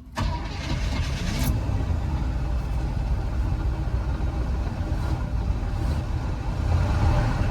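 The 1973 Chevrolet K20 truck's engine comes to life abruptly just after the start: a loud burst for about a second, then a steady low-pitched running. The engine stalls whenever the gas is tapped.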